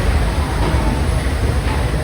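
Walt Disney World Railroad steam train running along the track, heard from a passenger car: a loud, steady rumble of the moving train.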